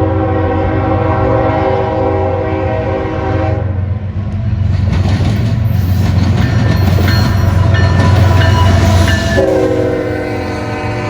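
Norfolk Southern freight train led by GE ES44AC NS 8098 sounding its multi-chime air horn, which stops after about three and a half seconds; the locomotives then pass close with a loud rumble of diesel engines and wheels on rail, with some high squeals. The horn sounds again near the end, slightly lower in pitch.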